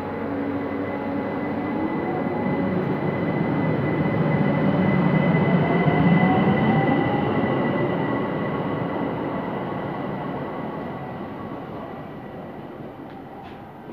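ÖBB electric multiple unit pulling away from the platform and accelerating past: the traction motors whine rising in pitch over a steady high tone, with running noise that swells to its loudest about six seconds in and then fades as the train moves off.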